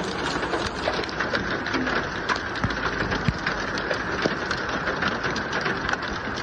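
Heavy rain falling on a hard surface: a dense steady hiss dotted with many sharp drop impacts.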